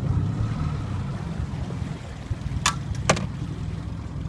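Boat motor running steadily with a low, pulsing rumble, with two sharp clicks a little under half a second apart near the middle.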